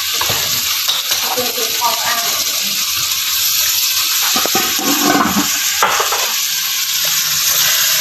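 Steady sizzling hiss of meat frying in a wok.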